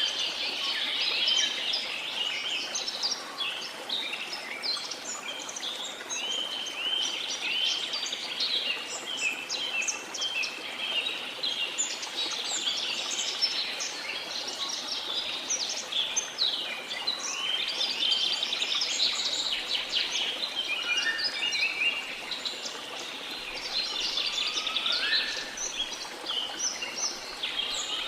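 A dense chorus of many birds chirping, trilling and whistling without a break, over a steady rush of falling water from a waterfall. A few short rising whistles stand out lower down, near the end.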